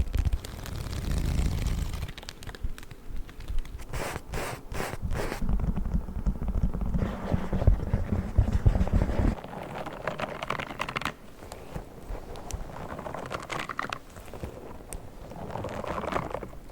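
Close-miked ASMR trigger sounds: objects being scratched, scraped and tapped, with a run of five quick taps about four seconds in. About nine seconds in the sound changes abruptly to softer scratching and crackling as a new object is handled.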